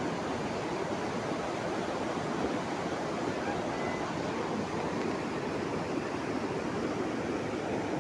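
Steady rushing of fast-flowing water, an even roar with no breaks.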